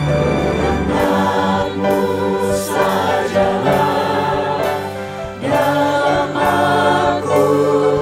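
Church choir singing a hymn with instrumental accompaniment, the fuller choral sound coming in about a second in over held low notes.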